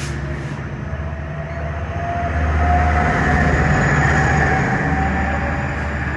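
Passenger train passing, its low engine drone building to a peak about halfway through and then easing off, with a faint whine above it.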